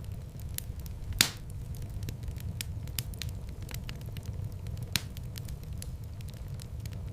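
Wood fire burning, with a steady low rumble under rapid, irregular crackles. There is a sharp, loud pop about a second in and another near the five-second mark.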